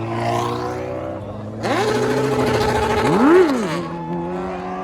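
Car engine idling, then revved up about a second and a half in, held, blipped higher to its loudest near the end of the rev, and dropped back to idle.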